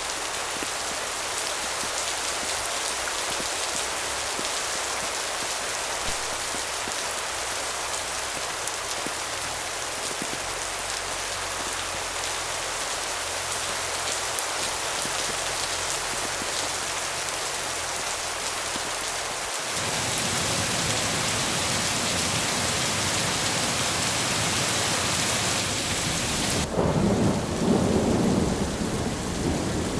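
Steady rain falling. About two-thirds of the way through it switches abruptly to a louder, fuller downpour, and near the end a low rumble of thunder rolls in.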